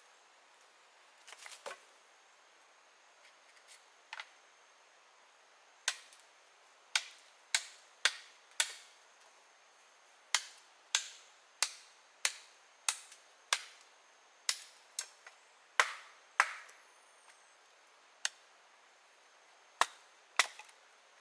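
Repeated sharp knocks of a tool striking wood, about twenty irregular strikes that come in quick runs and die away fast.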